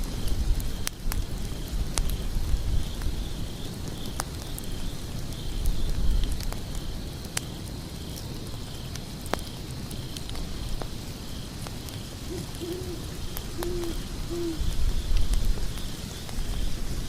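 Wood fire burning, with scattered sharp crackles and pops over a low rumble, and a steady high, pulsing chirp behind it. About three-quarters of the way through, an owl hoots a few short times.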